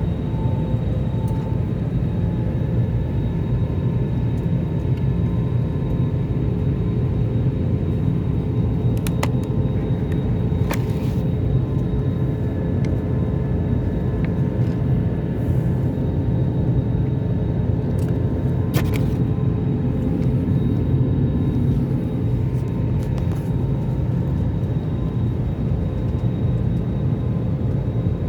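Steady rumble of an airliner's engines and airflow heard inside the passenger cabin, with a few faint sharp clicks.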